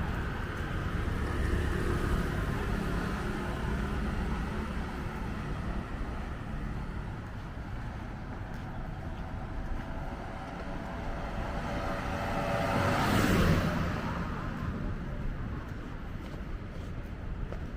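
City street traffic with a steady low rumble; one vehicle passes close, building to its loudest about thirteen seconds in and then fading away.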